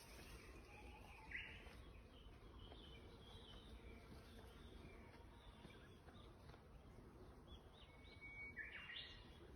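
Garden birds chirping faintly over a quiet background hiss, with a louder call a little over a second in and a burst of calls near the end.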